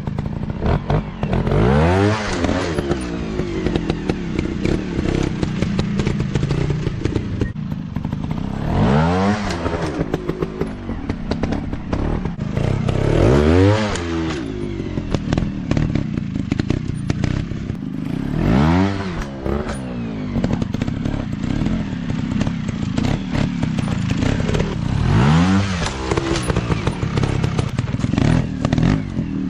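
Dirt bike engines running on an off-road track, revving up sharply and dropping back about five times, with clattering and knocking throughout.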